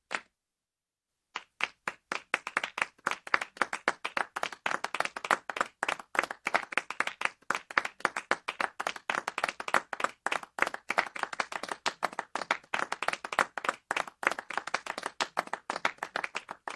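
Small crowd clapping sparsely and unevenly: short applause. It stops dead just after the start, and after about a second of silence the clapping starts again and carries on.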